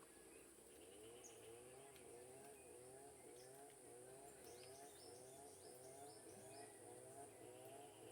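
Faint forest ambience: a steady high insect drone with a low wavering hum underneath, and a quick run of high, falling bird notes near the middle.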